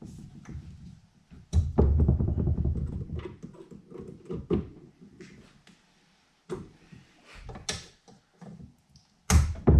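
Knocks and clunks with low rumbling from a Ryobi benchtop drill press being handled and tried out. There are two loud spells: one starts suddenly about a second and a half in and dies away over a few seconds, and the other starts near the end.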